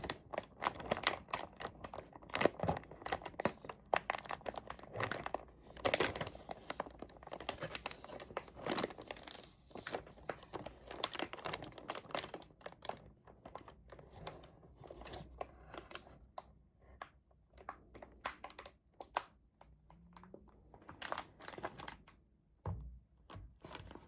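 Close-up crinkling and tearing of packaging as it is handled during an unboxing: an irregular stream of crackles and rustles, busiest in the first half.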